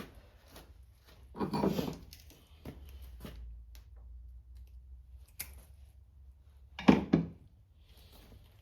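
Tape being pulled off a roll in two short noisy rips, about a second and a half in and again near the end, with small handling clicks and knocks between, as a spliced chainsaw wire is taped up.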